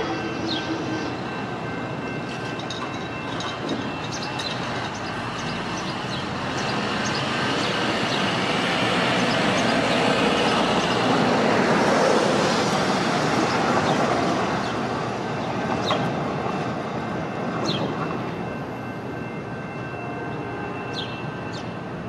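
Passenger trains rolling slowly on street-level track: wheel and rail noise that builds to its loudest around the middle and then eases off. A steady high tone runs through it, with scattered clicks of wheels over the rails.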